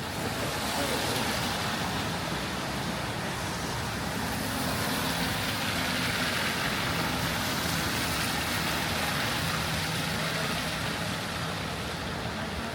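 Road traffic on a rain-wet street: tyres hissing on the wet road, swelling through the middle, with a low engine hum from about four seconds in until near the end.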